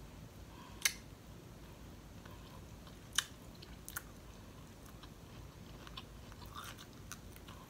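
Close-miked chewing of crispy fried shrimp, mostly faint, with a few sharp clicks from the mouth. The loudest comes about a second in, and another about three seconds in.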